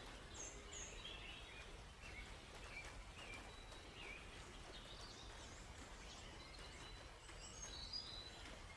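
Faint forest birdsong: several birds giving short, scattered chirps and quick calls over a steady soft hiss.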